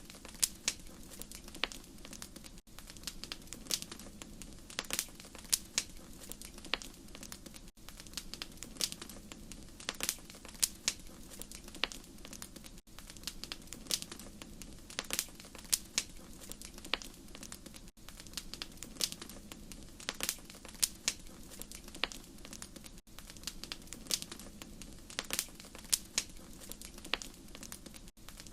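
Wood fire crackling in a fireplace: sharp pops and snaps at uneven intervals, several a second, over a steady low hiss of the burning fire.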